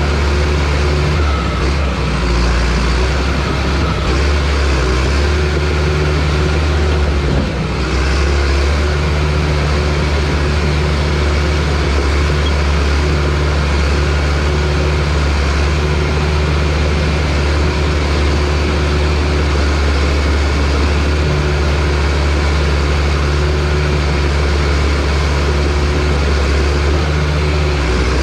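John Deere crawler dozer's diesel engine running steadily under load, with a brief dip about seven seconds in.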